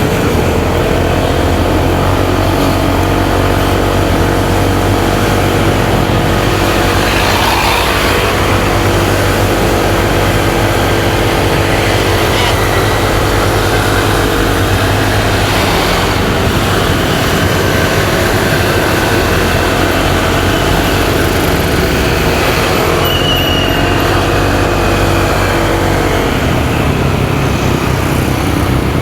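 Motorcycle engine running while riding, its pitch rising and falling with the throttle, over steady road and wind noise.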